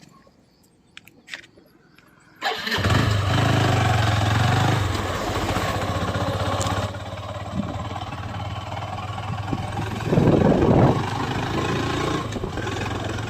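A few faint clicks, then about two and a half seconds in a motorcycle engine starts and runs steadily, with a brief louder burst about ten seconds in.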